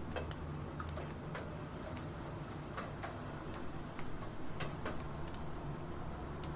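Computer keyboard typing: irregular single key clicks, a couple a second, over a steady background of rain noise.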